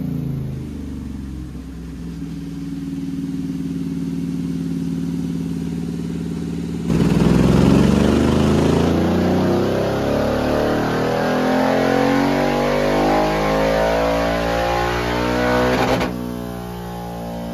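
Royal Enfield Interceptor 650's parallel-twin engine, with aftermarket headers and Scorpion exhaust, running on a rolling-road dyno. About seven seconds in it goes to full throttle, and the revs climb steadily for about nine seconds to around 7,500 rpm in a dyno power run. Near the end the throttle shuts abruptly and the revs fall away.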